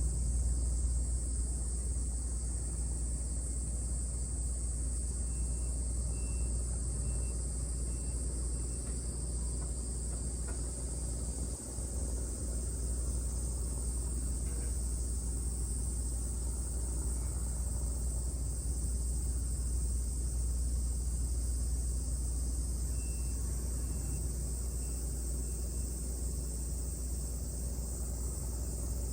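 Steady high trilling of insects over a constant low rumble, with a few faint short chirps twice.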